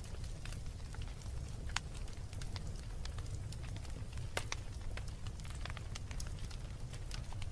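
Wood fire burning in a fireplace, crackling: irregular sharp pops and snaps over a steady low rumble of the flames, with the loudest pops about two seconds and four and a half seconds in.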